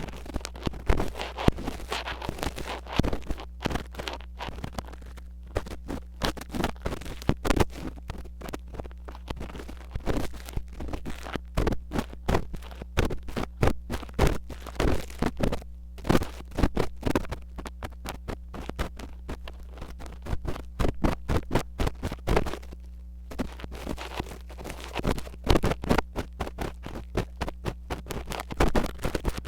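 Metal ear pick scratching and scraping hard against a mini microphone in ASMR ear cleaning: rapid, irregular strokes with a couple of brief pauses, over a steady low hum.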